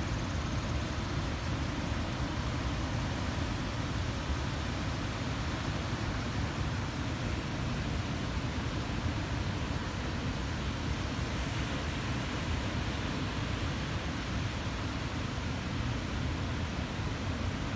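Steady roar of heavy surf on a sea still rough after a typhoon, with wind rumbling on the microphone.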